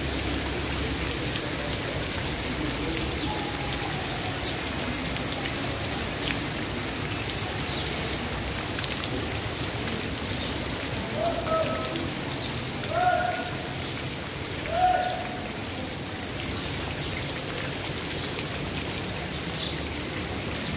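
Steady rain falling on a wet paved street. A few short calls, louder than the rain, break in about halfway through.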